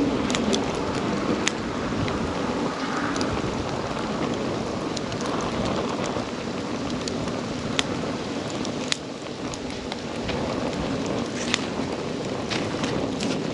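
Wood campfire burning: a steady rushing hiss of flame with scattered sharp crackles and pops every second or so.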